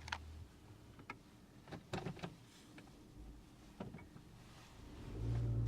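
A few scattered clicks and knocks inside a 2010 Toyota RAV4's cabin, over a low idle hum. About five seconds in, the engine and road noise rise to a steady low drone as the SUV pulls away.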